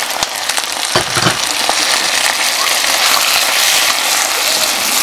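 Chicken and vegetable stir-fry sizzling steadily in a hot pan as water is added to the sauce, throwing up steam. There are a couple of knocks about a second in.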